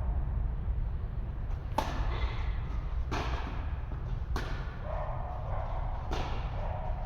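Tennis ball being struck and bouncing during a rally: four sharp pops about a second and a half apart, over a steady low hum.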